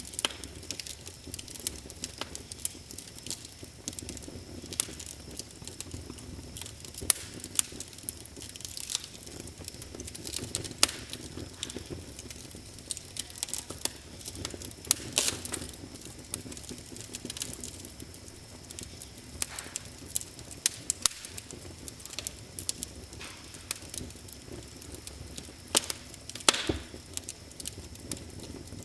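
Wood fire crackling: a steady low hiss with frequent irregular sharp pops and snaps.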